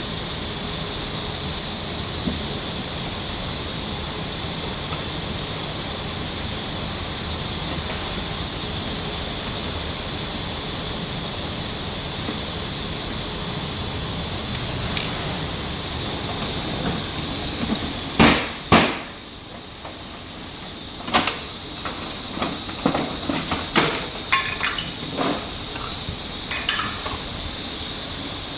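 Steady hiss, then two sharp clacks about 18 seconds in, followed by a scatter of lighter clicks and knocks of parts being handled and taken apart.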